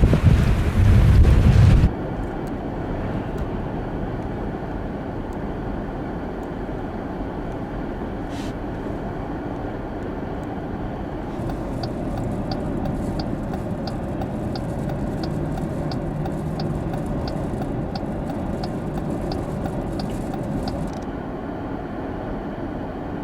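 Wind buffeting the microphone for about two seconds, then a sudden cut to the steady rumble of a vehicle driving, heard from inside. Through the middle there is a regular light ticking, about one and a half ticks a second.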